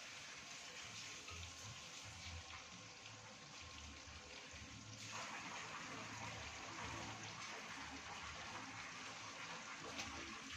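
Hot cooking oil sizzling steadily in a frying pan, a steady hiss that grows louder about halfway through.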